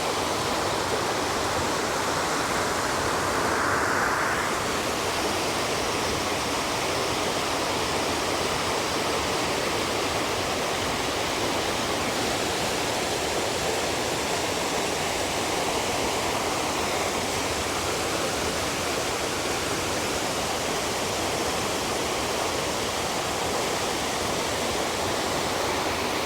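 Fast-flowing water rushing steadily over rocks, with a brief swell about four seconds in.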